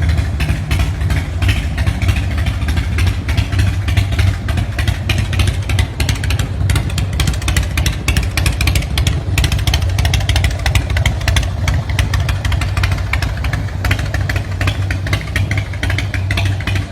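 2006 Thunder Mountain Blackhawk chopper's 103 cubic-inch Screaming Eagle V-twin running steadily and loud, with a deep, rapid exhaust pulse.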